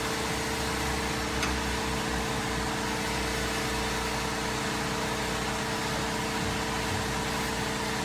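Workshop air compressor running steadily, building its tank back up to pressure after the air line has been used.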